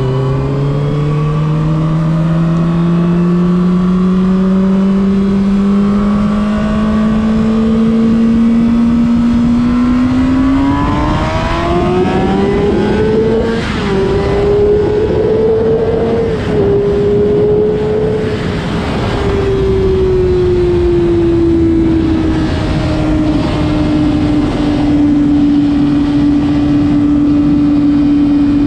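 Honda CBR600RR inline-four engine under way. It pulls slowly up through the revs, then climbs hard to a high-revving scream with two brief breaks in the note. It eases off and settles to a steady mid-rev drone, with wind rush under it.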